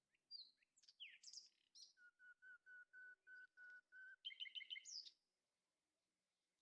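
A bird singing faintly: a few quick sliding whistles, then a run of about nine even, evenly spaced notes, then a short rapid phrase that stops about five seconds in.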